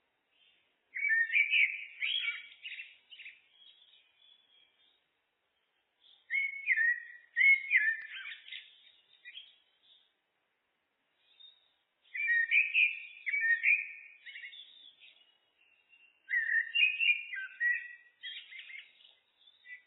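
Eurasian blackbird (Turdus merula) singing: four separate phrases of quickly changing whistled notes, each lasting two to four seconds, with short pauses between them.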